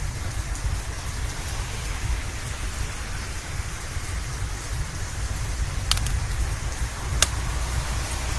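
Steady rain with a deep rumble underneath, and two sharp pops of a wood fire crackling near the end.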